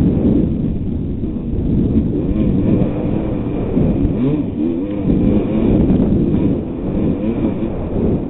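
1988 Kawasaki KX250's two-stroke engine revving up and down over and over, its pitch rising and falling every second or so, under a heavy low rumble.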